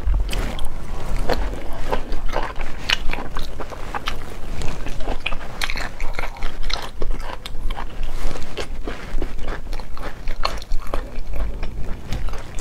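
A person chewing cooked snail meat, mouth close to the microphone: a dense, irregular run of short clicks and mouth sounds that goes on without a break.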